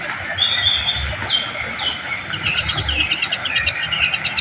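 White-rumped shama singing: a few short high whistles, then a fast chattering run of notes.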